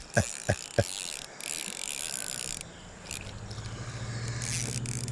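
Fishing reel being cranked to bring in a hooked bluegill: a steady mechanical whir that builds over the last couple of seconds, with a few sharp clicks in the first second.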